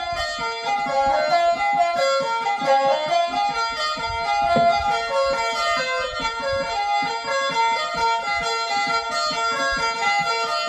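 Khaen, the Isan bamboo free-reed mouth organ, playing a quick, lively melody over a steady drone.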